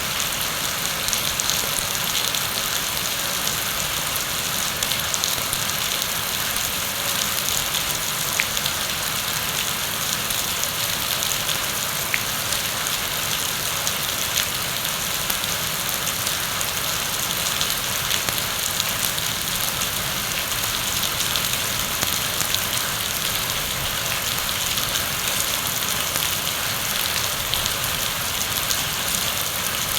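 Heavy rain falling steadily, a dense even hiss of drops on surfaces with scattered small drop ticks.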